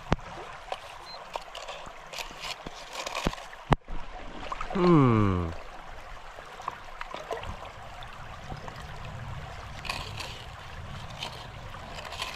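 Shallow creek water trickling, with scattered clicks and knocks from digging in the creek bed for a detector target. About five seconds in comes the loudest sound, a tone about a second long that falls in pitch.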